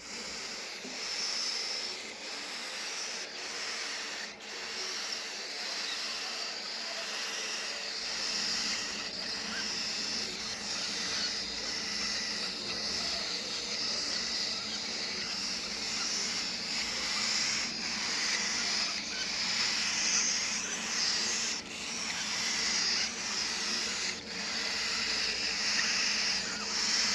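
Parrot chicks (budgie, lovebird and cockatiel) making a continuous raspy, hissing chatter, with a few faint clicks.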